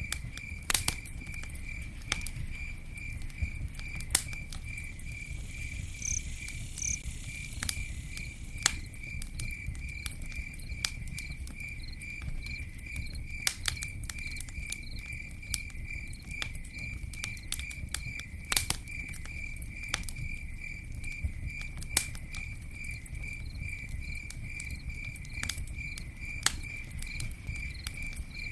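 Campfire crackling, with scattered sharp pops over a low rumble of burning wood. A cricket chirps throughout in a high, even, rapid pulse.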